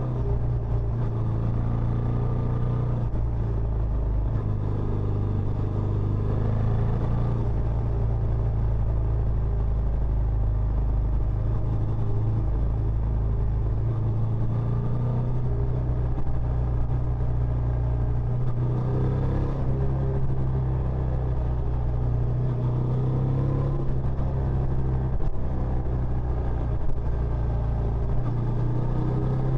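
Benelli Imperiale 400's single-cylinder four-stroke engine running through its stock exhaust, a steady low exhaust note that holds at a roughly constant engine speed, with no sharp revs.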